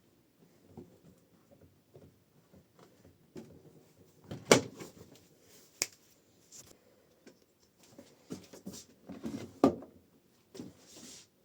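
Scattered light clicks and knocks, with two louder sharp knocks, one about four seconds in and one near the end.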